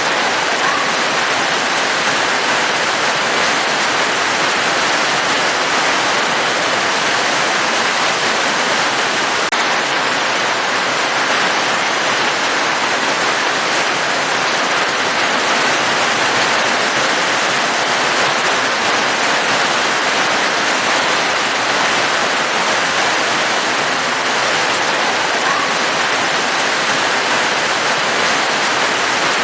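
Steady, dense rain falling without a break, an even hiss of water.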